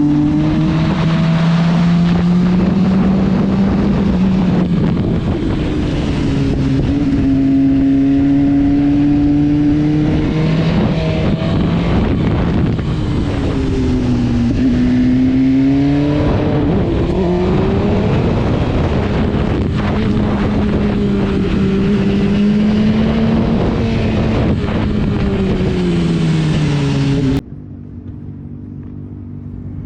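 Motorcycle engine running hard on a race track with heavy wind rush, its pitch rising and falling as it accelerates and slows through corners. It cuts off suddenly near the end to a quieter, steadier engine sound.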